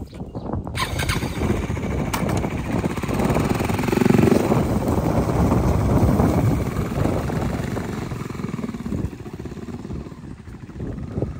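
KTM Duke motorcycle's single-cylinder engine revving as the bike pulls away over rough field ground. It is loudest a few seconds in, then fades as the bike rides off into the distance.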